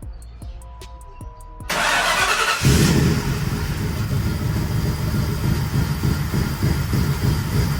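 A car engine is cranked by its starter about two seconds in, catches within a second and settles into a running idle with a fast, uneven pulse. It is the freshly overhauled engine being started up.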